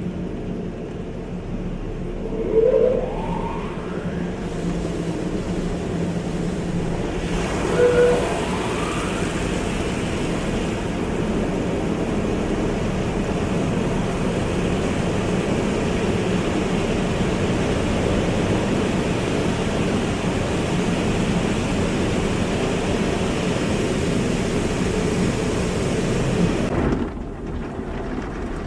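Automatic car wash running: a steady rush of spraying water over a machinery hum. The spray grows stronger about seven seconds in and cuts off sharply near the end. Two brief rising squeaks come about three and eight seconds in.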